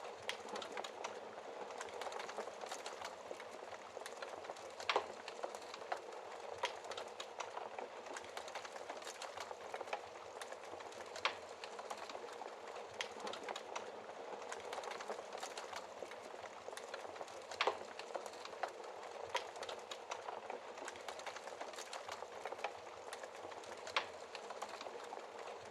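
Wood fire crackling in a fireplace: a steady dense crackle with frequent small snaps and a few louder sharp pops.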